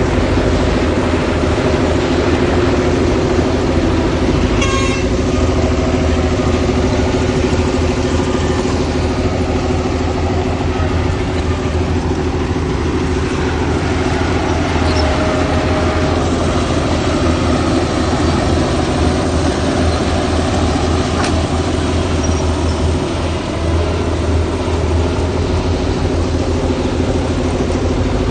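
Heavy diesel machinery running steadily at a landfill site, a deep engine drone with a constant pitch. A short, higher sound cuts in briefly about five seconds in.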